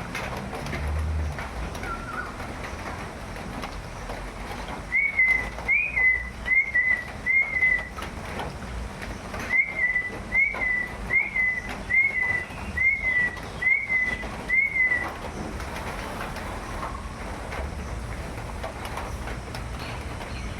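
A bird calling a short whistled note over and over, about one note every three-quarters of a second. A run of five notes is followed by a short pause, then seven more.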